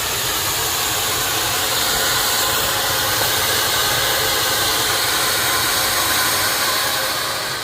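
A firework, such as a ground fountain, hissing steadily as it sprays sparks, dying away near the end.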